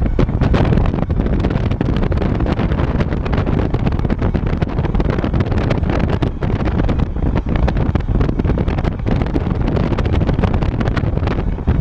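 Wind buffeting the microphone: a loud, steady rumble with frequent crackling gusts.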